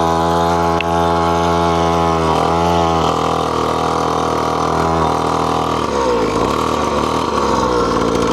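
Small single-cylinder engine of a Funbikes MXR 50 kids' mini dirt bike running at a steady speed, dipping briefly about two and a half seconds in. Its revs rise and fall over the last few seconds.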